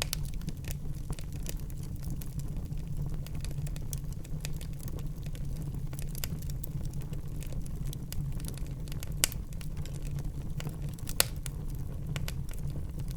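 Wood fire burning in a fireplace: a steady low rumble of the flames under irregular crackles and pops, with two sharper pops at about 9 and 11 seconds.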